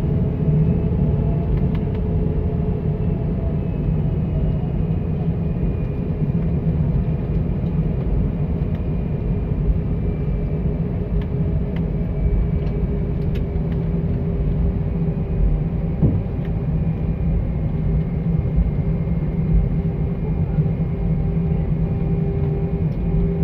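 Airbus A320 cabin noise from a passenger seat: the jet engines run at low power with a steady rumble, a held hum and a faint high whine that slowly drifts in pitch.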